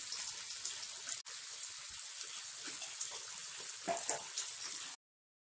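Chopped onion, capsicum and garlic frying in hot oil in a pan, a steady sizzle with sauce just added; it cuts off abruptly about five seconds in.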